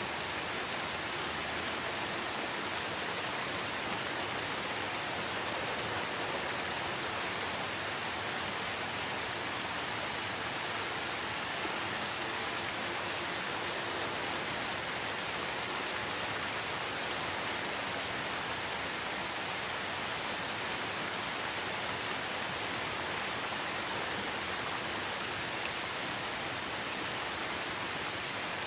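Steady heavy rain, an even hiss of falling water with a few distinct drops ticking through it.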